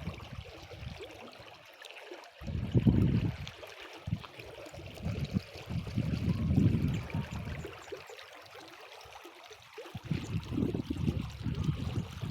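Small stream flowing and trickling, with wind buffeting the microphone in three low gusts that drown it out for a second or two at a time.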